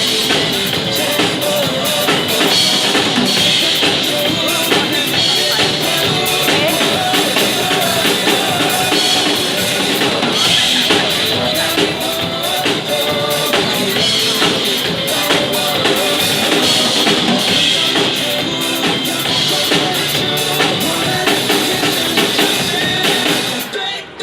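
Live band playing an upbeat pop-rock song, with a steady drum-kit beat and little or no singing; the music dips briefly near the end.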